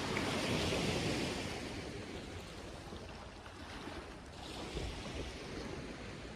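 Small surf breaking and washing up the beach, swelling twice: once near the start and again about four and a half seconds in.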